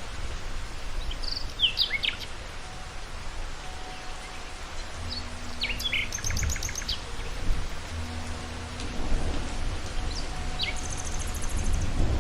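Steady rain falling over a low rumble, with birds chirping at intervals: a few calls about a second and a half in, a quick run of notes around the middle, and a fast high trill near the end.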